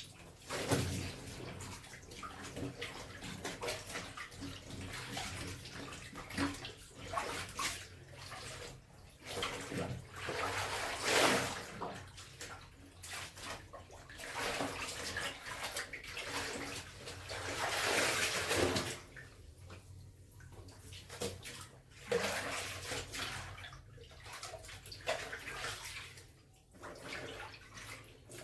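Clothes being washed by hand in a tub of water: irregular sloshing and swishing that swells and fades, with louder surges about a third of the way in and again past the middle.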